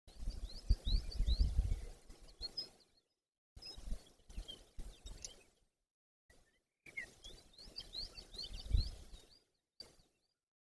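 Birds chirping: short high rising and falling chirps in quick runs, over a low rumble. The sound comes in three short stretches broken by dead silence.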